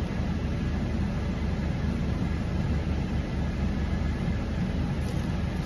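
Car engine idling while the car stands still, a steady low rumble heard from inside the cabin.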